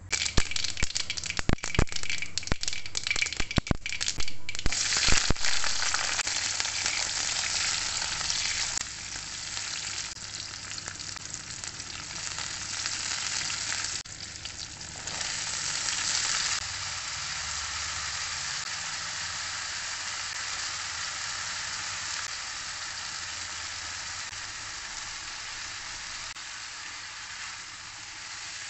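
Mustard seeds popping and crackling in hot oil in a kadai for the first few seconds, then a steady sizzle of onions and green chillies, and later elephant foot yam cubes, frying in the oil while being stirred with a spatula.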